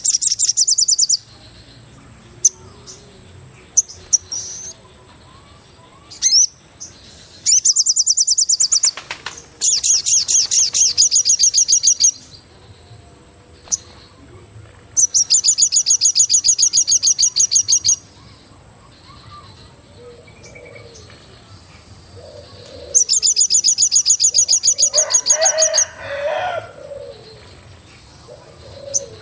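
Birdsong in the forest: loud, high, rapid trills lasting one to three seconds each, repeated five times with pauses between. A faint steady high tone runs underneath, and a few lower calls come in near the end.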